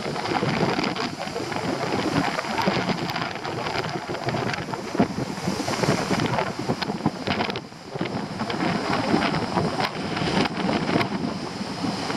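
Very strong storm wind buffeting the microphone over stormy sea surf, with a brief lull about two-thirds of the way through.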